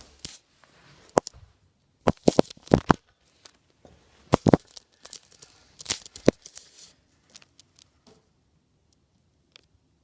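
Irregular clusters of sharp clicks and knocks with rustling between them, like hands handling objects; they die away over the last few seconds.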